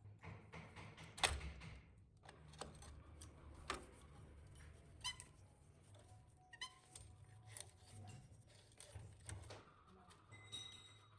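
Faint clicks, taps and knocks of metal parts being handled during the teardown of an old ceiling fan, a few of them giving brief metallic rings, about a dozen scattered sounds.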